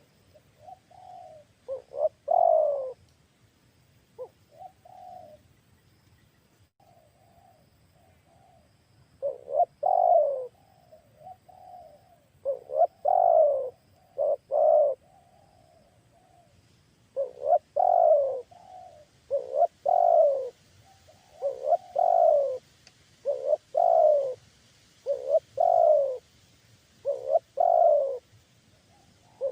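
Spotted dove cooing: a series of low coos that each fall in pitch, in phrases broken by short pauses, a softer stretch a few seconds in, then a run of louder coos about one a second through the second half. This is a call used to lure wild spotted doves.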